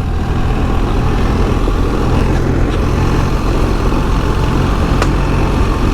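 BMW R 1300 GS's 1300 cc boxer twin running steadily under way in third gear on a dirt trail, with rough riding noise from the bike over the track. A brief click about five seconds in.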